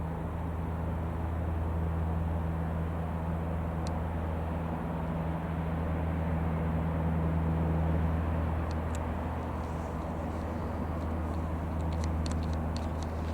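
Cessna 150 Aerobat's four-cylinder engine and propeller droning steadily in flight, swelling about eight seconds in and then easing off. A few faint clicks near the end.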